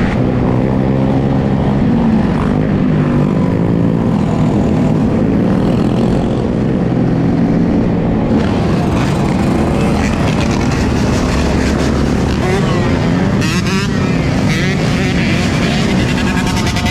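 Dirt bike engine running and revving, its pitch rising and falling again and again.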